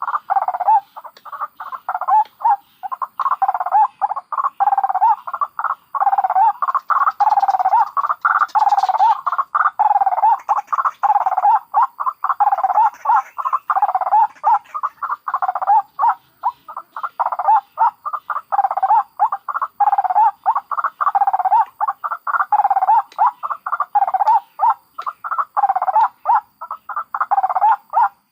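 White-breasted waterhens (ruak-ruak), adults and chicks, calling nonstop: a dense, fast run of short repeated croaking notes, several a second, in a bird-trapping lure recording.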